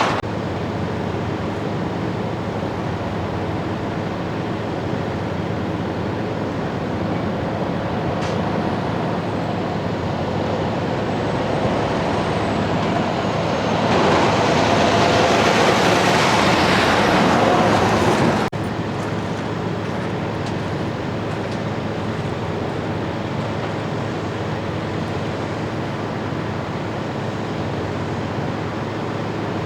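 Big-rig trucks running on the road, a steady mix of diesel engine and tyre noise. A louder stretch about halfway through cuts off suddenly, and steadier traffic noise carries on after it.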